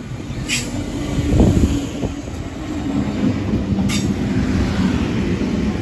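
Stainless-steel double-deck electric passenger train pulling in alongside the platform: a low rumble of wheels on rails with a steady hum, loudest about one and a half seconds in. Two short, sharp clicks come about half a second and four seconds in.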